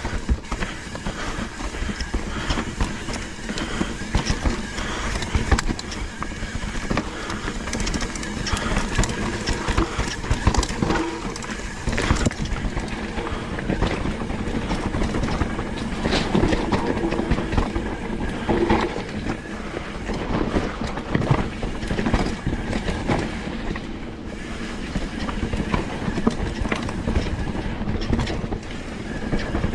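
Mountain bike riding over a rough, rocky trail: tyres crunching on dirt and rock while the bike's frame and chain rattle and clatter continuously.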